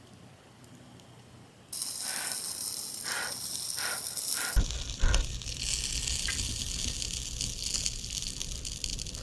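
Food sizzling on a small hot iron griddle: a steady hiss that starts suddenly about two seconds in, with a few short crackles, and a low rumble joining it about halfway through.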